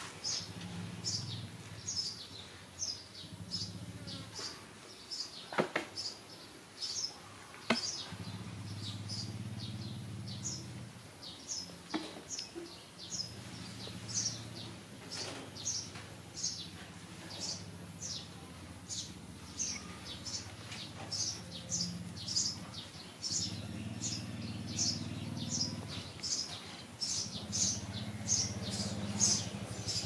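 A small bird chirping over and over, short high notes about two a second, with a low hum coming and going underneath and a couple of sharp clicks.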